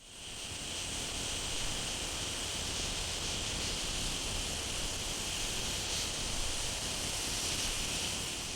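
Steady high-pitched insect chorus with a low background rumble, fading in at the start.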